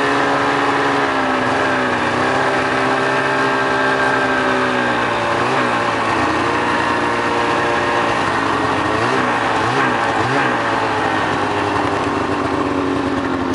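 A small vehicle's engine running under way, its pitch dipping about two seconds in and wavering up and down through the middle as the throttle changes.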